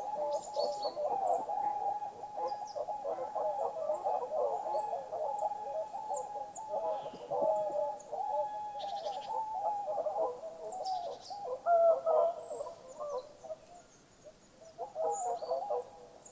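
Birds calling: dense, continuous warbling chatter with short, higher chirps scattered through it. The chatter thins out near the end.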